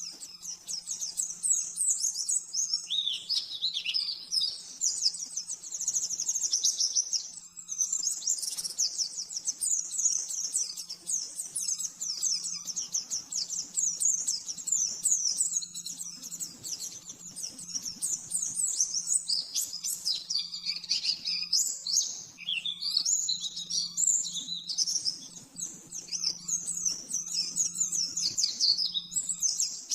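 Pleci (white-eye) singing a fast, high, almost unbroken chattering song of quick twittering runs, the 'nembak-nembak' style used as a masteran tutor song, with short breaks about seven seconds in and around twenty-one seconds.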